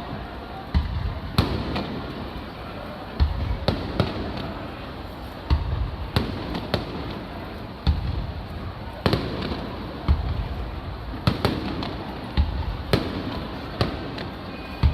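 Aerial fireworks shells bursting in irregular succession: more than a dozen sharp bangs, many with a deep boom after them.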